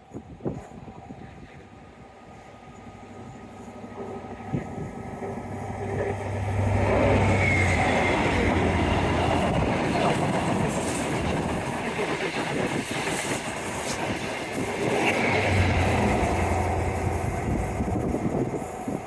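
A diesel train passing close by, getting louder over the first several seconds, then running loud and steady with a low engine drone and wheel noise on the rails until the end. Described as quite a nice noisy one, muffled somewhat by the microphone's wind blocker.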